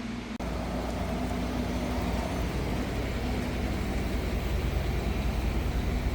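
A motor vehicle running steadily, a continuous low rumble starting just after a brief cut near the beginning.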